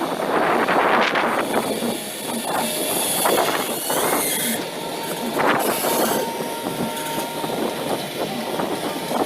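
Amphibious excavator travelling on its pontoon tracks: the steel track chains clank and squeal over the running engine.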